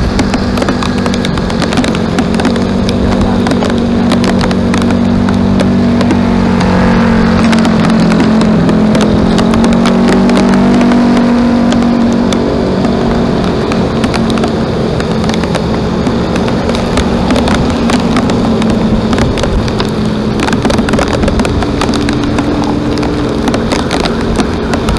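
A vehicle running steadily, with a low hum that wavers slightly in pitch and a constant crackle of small clicks.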